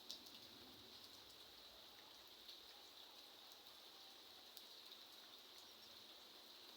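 Faint light rain: a soft, steady patter with a few single drops ticking out now and then.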